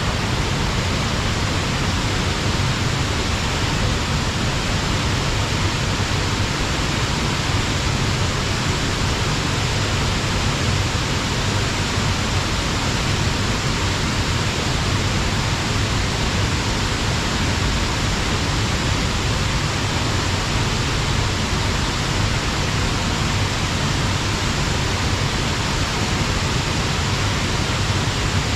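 Waterfall spilling over a stone weir: a loud, steady, unbroken rush of falling water that does not change.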